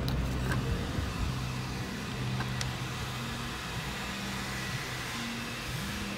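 Hyundai i30 hatchback idling steadily at a car wash bay entrance, with a couple of light clicks.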